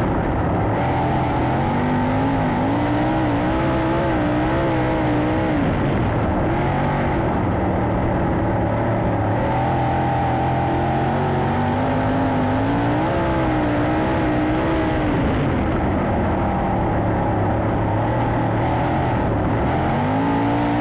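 410 sprint car V8 engines running at racing speed, the pitch rising and falling over a few seconds at a time as the revs climb on the straights and drop into the turns.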